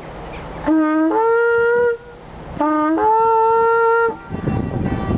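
A horn blown in two long blasts, each starting on a low note and stepping up to a higher, held note, with a short gap between them. A rough rumbling noise follows near the end.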